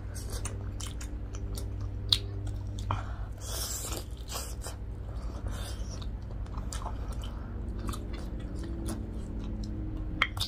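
Close-up biting and chewing of crispy fried chicken wings: wet chewing with sharp crunches scattered irregularly throughout.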